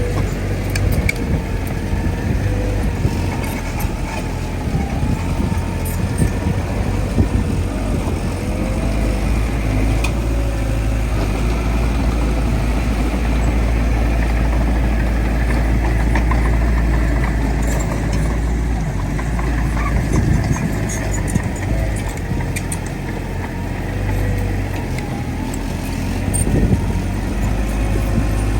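Heavy diesel earthmoving machinery running under load: a bulldozer's engine with a deep, steady rumble and a wavering whine above it.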